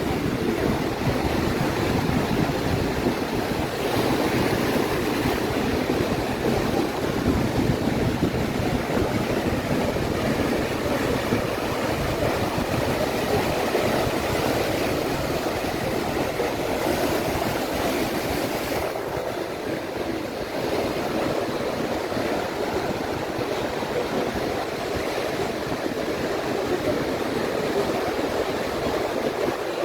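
Atlantic surf breaking and washing steadily up the beach as a continuous rush of waves, with no distinct individual impacts.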